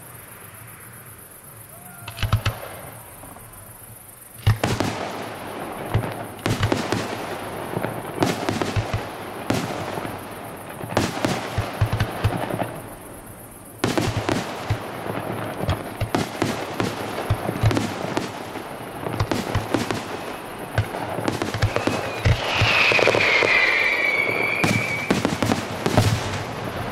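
Fireworks going off: a single bang, then rapid runs of sharp bangs and crackling with brief lulls. A high whistle glides down near the end.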